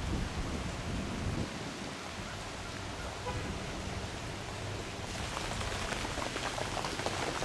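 Steady outdoor noise like falling rain, with a low rumble underneath; the hiss grows brighter about five seconds in, with faint ticks.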